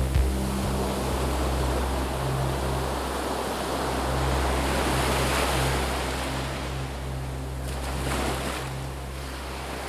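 Ambient soundscape of a surf-like rushing noise that swells and eases in slow waves over a steady low drone, gradually fading toward the end.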